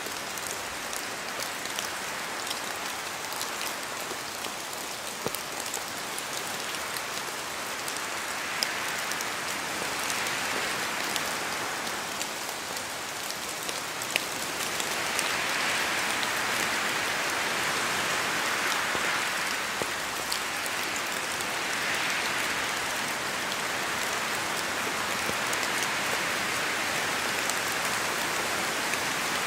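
Steady rain falling through forest trees, with scattered single drops ticking. The hiss swells now and then with the wind and grows a little louder about halfway through.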